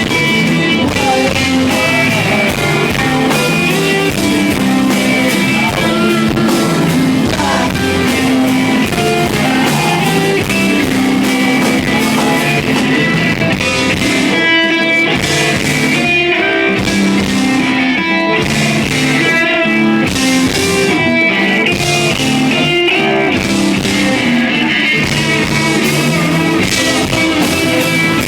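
Live rock band playing loudly, led by electric guitars over drums, in a small venue.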